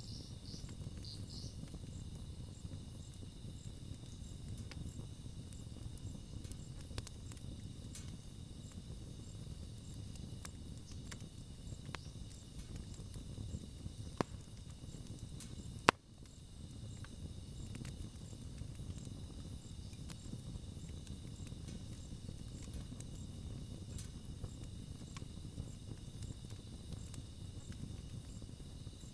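Campfire burning with a soft low rumble and scattered small crackles, and two sharp, louder pops about halfway through. A steady high insect chirring, like crickets, runs underneath.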